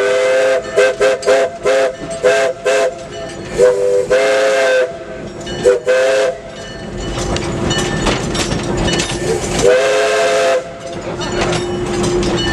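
Steam locomotive's chime whistle sounding a chord of several notes: a quick run of short toots, then three longer blasts. A steady hiss of steam fills the gaps between blasts.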